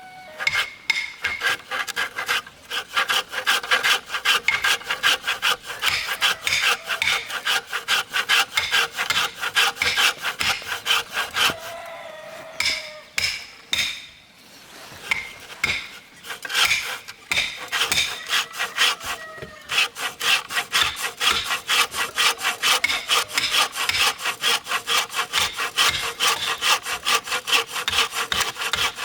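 Wood being sawn by hand: fast, even rasping strokes with a short break about halfway through.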